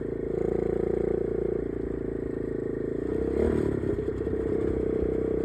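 Dirt bike engine running while riding, its note rising and falling a few times with the throttle.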